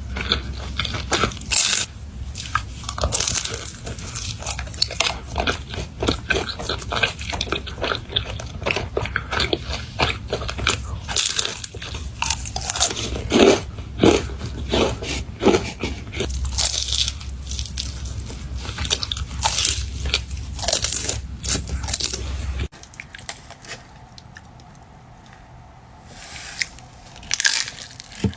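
Close-up eating sounds: crunchy fast food being bitten and chewed, with many irregular crunches. The crunching stops abruptly about 23 seconds in, and a few softer chewing crunches follow near the end.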